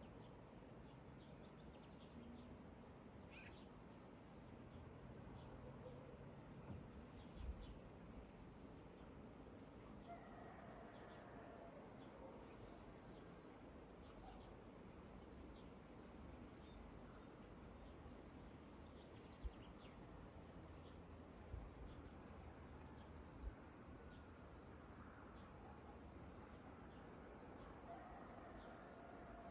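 Faint, steady high-pitched chirring of crickets, with a few soft knocks along the way.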